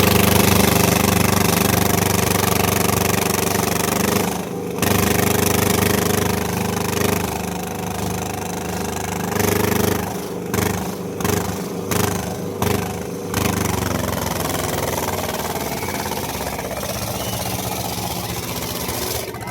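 Tractor diesel engine running hard at high revs. The throttle is eased off and reopened once about four seconds in, then in several quick dips around the middle, before it settles to a steadier, slightly quieter run.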